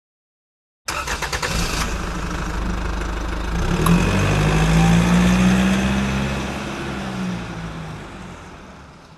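A fifth-generation Chevrolet Camaro SS's 6.2-litre V8 starting: the starter cranks briefly and the engine catches about a second in, then revs up, holds, and settles back as the sound fades out.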